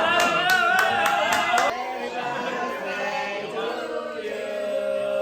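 A group of people singing together in unison, their voices rising and falling, then holding one long note near the end.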